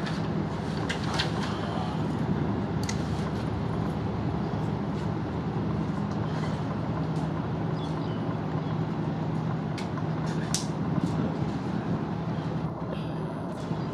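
Steady low mechanical rumble with a constant hum, broken by a few brief faint clicks.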